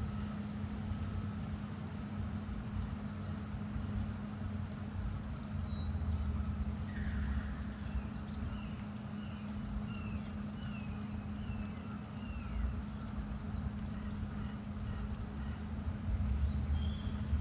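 Birds chirping in a run of short, high, falling notes, over a steady low hum and a low rumble like distant traffic.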